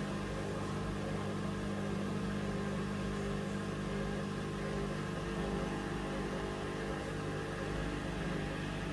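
Hoover Vision Dynamic washing machine running with a steady motor hum and whir.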